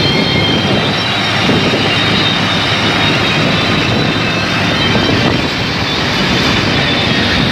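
Sonalika 39 HP tractor's diesel engine running hard at high speed, a steady loud drone that holds without a break.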